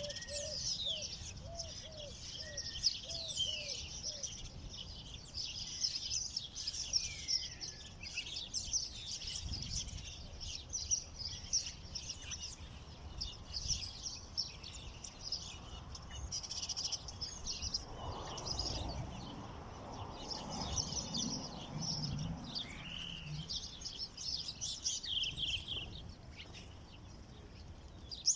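Many small songbirds chirping and twittering together in a dense, continuous chorus of short high notes. In the first few seconds a lower call repeats about twice a second beneath it.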